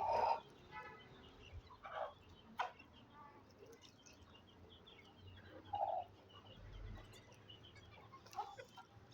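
Aseel chickens clucking and calling now and then as they feed, with short cries that are loudest right at the start and about six seconds in.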